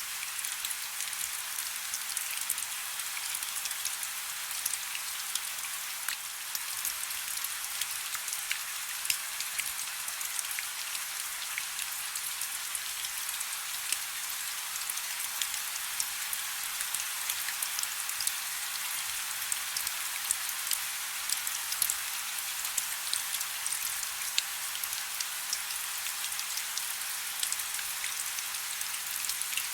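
Soft, steady rain: an even hiss dotted with the light ticks of many individual drops.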